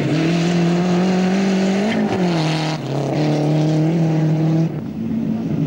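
Rally car engine held at high revs as the car races along a gravel stage. About three seconds in the sound briefly dips and the pitch drops, as with a gear change, and it fades near the end as the car moves away.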